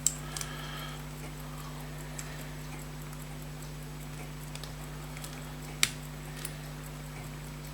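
A few small, sharp metal clicks as a screwdriver blade prises at the edge of a fusee watch's mainspring barrel to lever its cover off, the loudest just under six seconds in, over a steady low hum.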